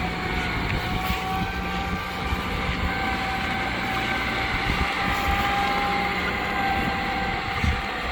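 Kubota M6040 tractor's diesel engine running steadily under way, with a steady high whine over the engine's rumble.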